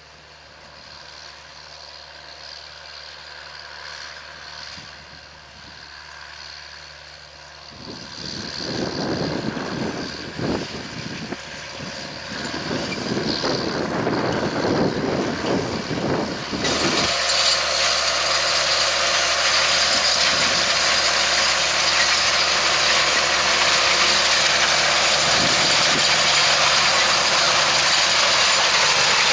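John Deere 7920 tractor's six-cylinder diesel working under load pulling a Simba Horsch Sprinter seed drill. It starts faint and grows steadily louder as it approaches. A little past halfway the sound jumps abruptly to a loud, steady din of engine and drill running close by.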